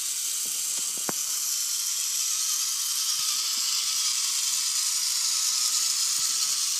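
Toy train running along its plastic track, a steady high whirring hiss from its small motor and wheels, with a faint click about a second in.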